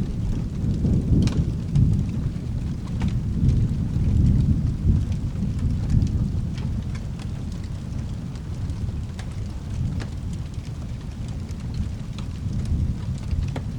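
Rolling thunder rumbling over steady rain, heaviest in the first half and easing off after about six seconds, with scattered sharp ticks and drips on top.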